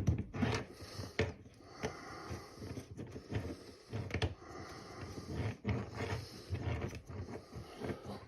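Handling noise of a toilet supply line being threaded onto a shutoff valve by hand: scattered small clicks and knocks at irregular intervals over a low rumble.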